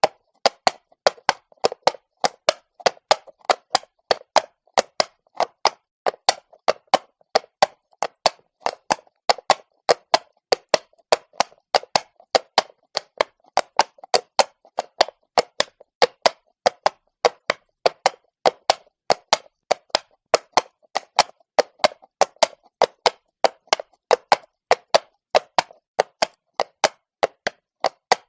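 Horse's hooves walking on stone, a steady clip-clop of about three sharp hoof strikes a second.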